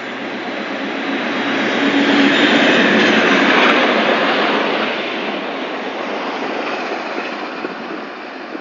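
A train passing close by: Class 56 diesel locomotive 56312 leading, with steam locomotive Tornado and coaches behind. Its sound builds to a loud peak about two to four seconds in as the locomotives pass, then gradually fades as the coaches run away.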